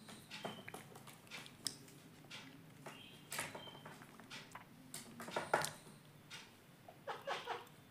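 Indian ringneck parakeet tapping, pecking and scratching at a mirror and its perch with its beak: irregular sharp clicks, the loudest about two-thirds of the way through, with a couple of brief high squeaks near the middle.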